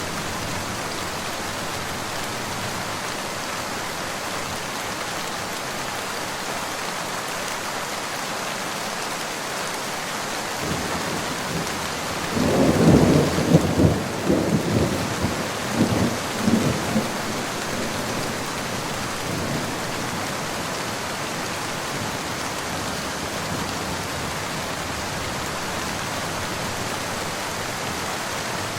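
Steady rain falling, with a roll of thunder about twelve seconds in that rumbles in several pulses for about five seconds and fades back into the rain.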